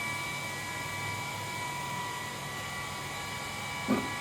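A steady whirring hum with several faint, high, steady whines, and a brief louder blip near the end.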